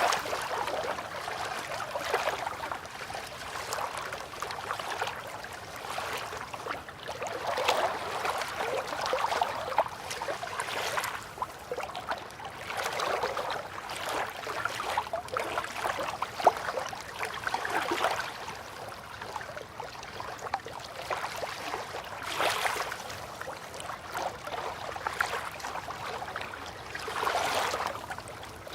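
River water lapping and trickling, rising and falling in uneven swells with small splashes.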